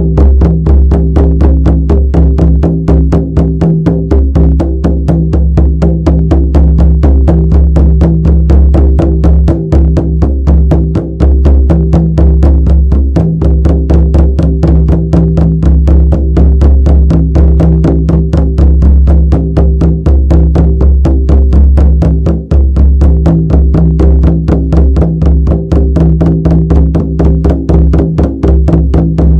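Shamanic drum beaten in a fast, steady, even rhythm, each stroke ringing into a deep continuous boom.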